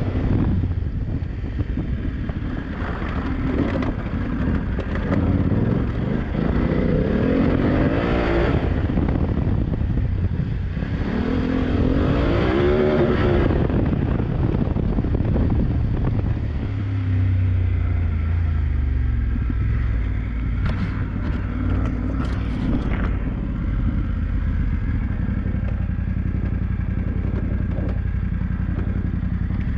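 BMW F900GS's parallel-twin engine revving up and down repeatedly under hard off-road riding, over wind noise. From just past halfway it settles to lower, steadier revs, with a few sharp clatters a little later.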